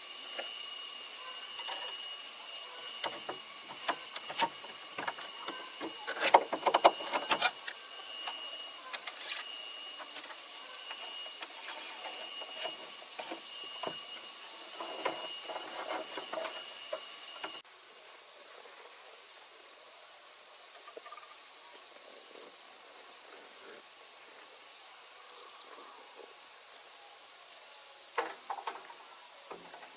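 Insects chirring steadily in the background, broken by scattered knocks and clatter, with a burst of louder knocks about six seconds in.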